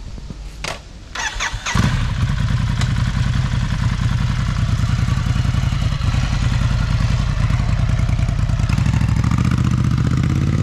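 Ducati Scrambler's air-cooled L-twin engine being started: a click, a brief crank of the electric starter, then the engine catches about two seconds in and idles steadily, pulling away near the end.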